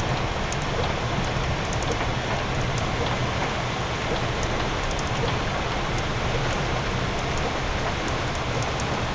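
Steady road noise inside a double-decker coach driving fast on a snow-covered highway: a low drone of engine and tyres under an even hiss, with faint scattered ticks.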